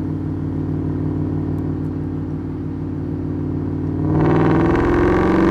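2005 Ford BA XR8 ute's 5.4-litre Boss 260 V8 through a straight-piped exhaust, miked at the pipe, cruising steadily at low revs. About four seconds in the throttle opens: the exhaust note jumps louder and starts rising in pitch under hard acceleration.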